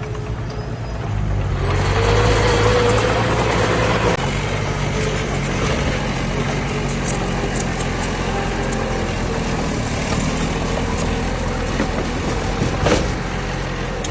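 Heavy diesel engine of earthmoving machinery running steadily, growing louder with a slight rise in engine note shortly after the start for about two seconds, then settling back to a steady run.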